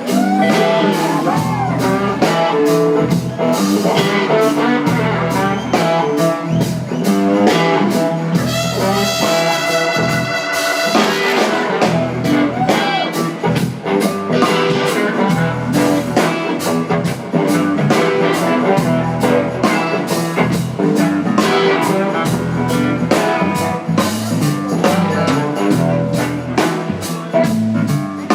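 Blues-rock band playing live, in an instrumental stretch with no singing: electric guitar lines bending in pitch over horns and a drum kit.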